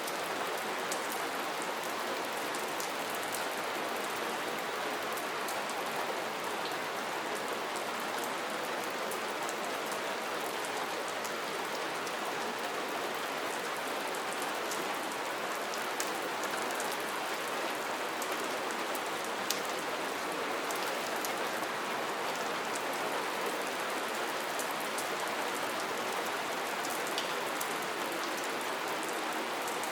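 Steady rain falling, a constant hiss with the fine patter of many individual drops striking a surface.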